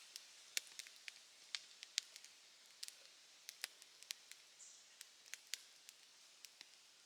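Open wood fire crackling: irregular sharp pops and snaps, about three a second, over a faint hiss.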